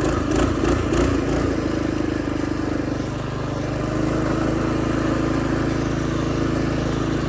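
Predator 212 single-cylinder engine on a mini bike running, uneven with a few knocks for the first second or so, then steady, its pitch rising slightly about four seconds in.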